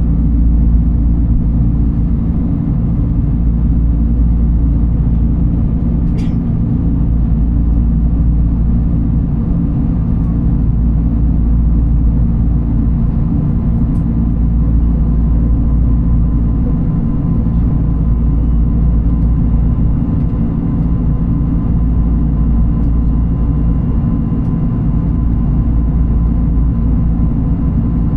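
Steady low rumble of a vehicle heard from inside the cabin, even in level, with a faint steady hum over it.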